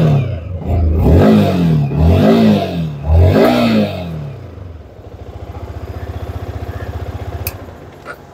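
Yamaha R15 V4's 155 cc liquid-cooled single-cylinder four-stroke engine revved in three quick blips, each rising and falling in pitch. After about four seconds it settles to a steady, even idle.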